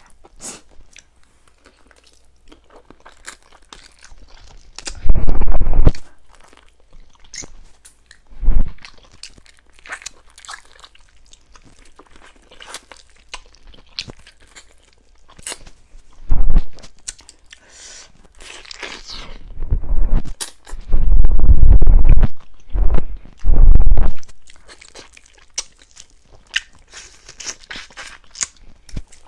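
Close-miked chewing and crunching of chicken, with many small clicks throughout. Several heavy low thumps come through louder than the chewing: one about five seconds in, and a cluster around twenty to twenty-four seconds in.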